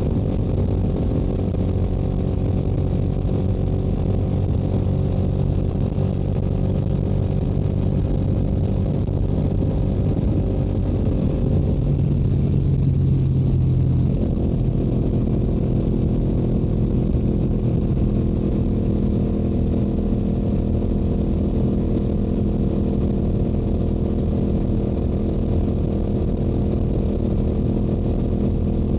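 Stock-exhaust Yamaha YZF-R7 parallel-twin engine cruising at highway speed. Its note shifts about halfway through, then settles into a steady note again.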